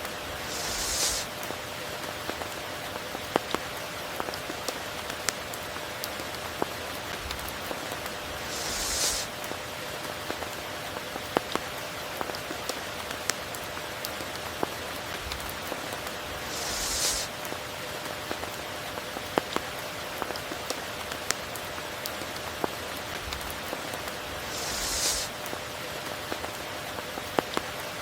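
Steady rain falling, with scattered sharp ticks of close drops. A brief louder hiss swells up about every eight seconds.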